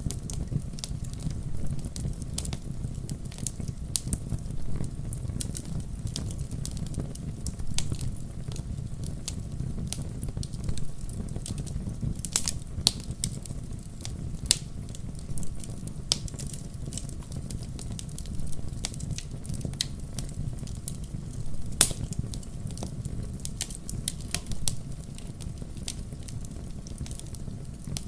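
Wood fire in a fireplace crackling, with sharp irregular pops over a steady low rumble; one pop about three-quarters of the way through stands out as the loudest.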